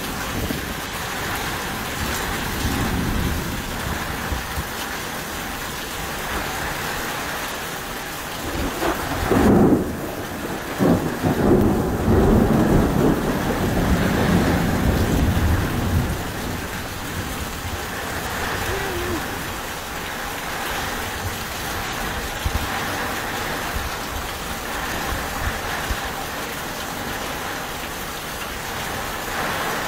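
Heavy rain pouring steadily, with water splashing down off an overflowing roof gutter. Thunder rumbles from about nine to sixteen seconds in, the loudest part, then the rain carries on alone.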